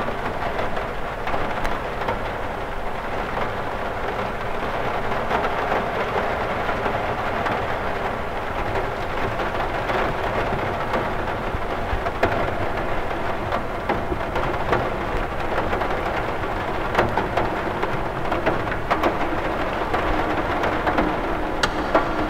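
Rain falling steadily on a cathedral window: a dense, even hiss of rain with many small sharp ticks of single drops striking the glass.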